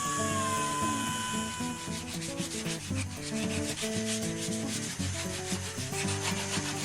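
A high whine that stops about a second in, then quick, even sanding strokes, about four or five a second, over background music.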